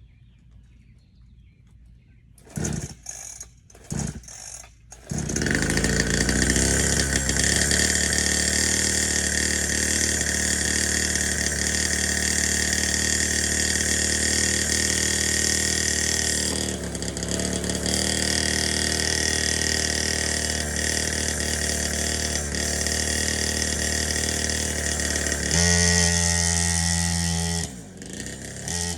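Dirtbike engine being kicked over in a few short attempts, catching about five seconds in and then running steadily. Near the end it runs with a deeper, stronger note for a couple of seconds, drops off briefly, then runs on.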